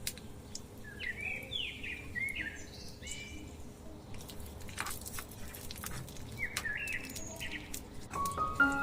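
Small birds chirping in short, repeated bent calls, in two bouts, with a few light clicks between them.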